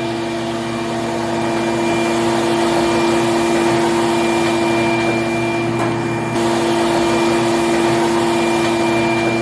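A steady electric motor hum, even and unbroken, with a slight shift in its sound about six seconds in.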